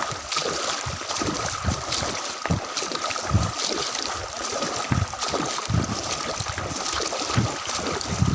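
Water sloshing and splashing around the legs of someone wading through knee-deep floodwater, in uneven surges about every half second to a second, mixed with wind buffeting the microphone.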